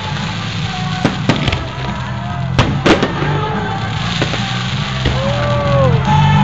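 Fireworks going off: a handful of sharp bangs about a second in and again near the middle, over loud music with a steady low beat.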